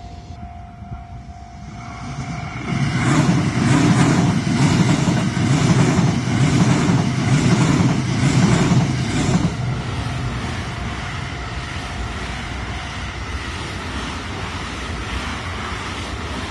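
Train passing over a level crossing: a loud rumble with a regular clatter of wheels over rail joints for about seven seconds, then dying away to a steadier, quieter background noise.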